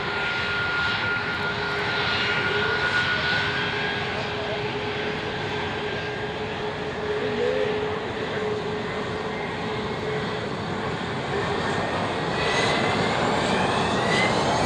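Fixed-wing aircraft engines running, a steady rushing noise with a held whine, joined near the end by several tones rising in pitch.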